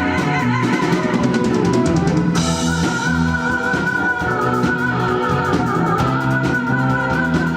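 Live rock band playing an instrumental passage between sung lines: drum kit and bass keep a steady beat. About two seconds in a cymbal crash marks a change and a held, slightly wavering lead melody comes in over the band.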